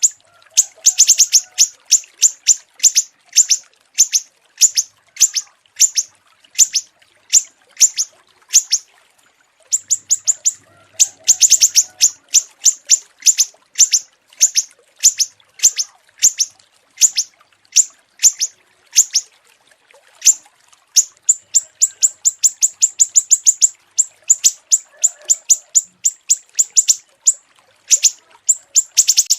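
Small songbird calling in a long run of sharp, high chirps, about two to three a second, broken now and then by short pauses, as in a masteran recording of small-bird song used to tutor cage birds.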